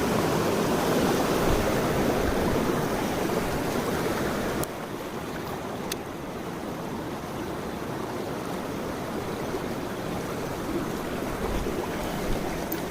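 A mountain stream flowing: a steady rush of water that drops somewhat in level suddenly about a third of the way in, with a few faint clicks.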